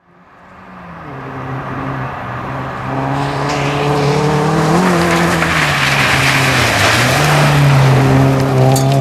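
Fiat Cinquecento rally car's engine running hard at high revs, with a broad rush of tyre and gravel noise beneath it. The sound fades in over the first few seconds, and the engine note dips briefly twice, about five and seven seconds in.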